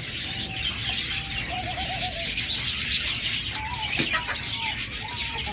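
Many caged birds calling at once: a dense, continuous high chirping, with short repeated calls and doves cooing below it.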